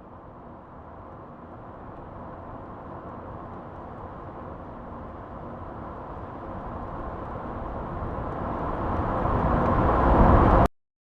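Vehicle sound effect played back: a steady rush of road and engine noise that grows louder over about ten seconds as it is faded in with volume automation, then cuts off abruptly near the end.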